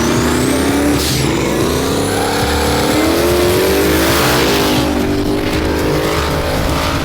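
Turbocharged race engine accelerating hard at full throttle in a drag run. Its pitch climbs, drops sharply at gear shifts about a second and four and a half seconds in, and climbs again, with a brief high falling whistle at the first shift.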